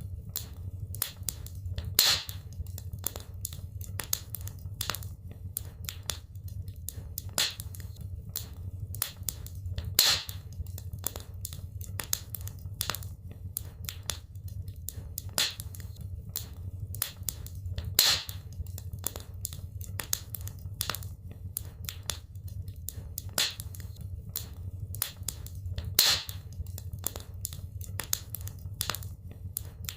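Wood fire burning in a fireplace: dense irregular crackling over a steady low rumble of the flames, with a louder pop about every eight seconds.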